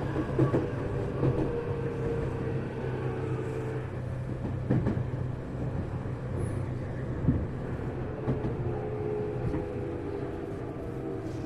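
Tokyu 1000 series electric train car heard from inside while under way: a steady rumble with a held motor whine that fades about four seconds in and comes back near the end, and a few sharp knocks.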